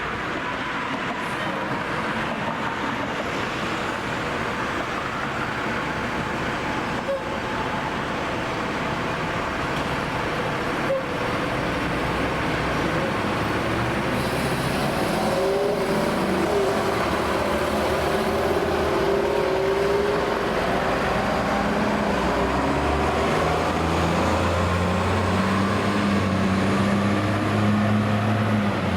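Road traffic noise, then a heavy emergency vehicle's engine drawing near, its low drone growing gradually louder over the second half.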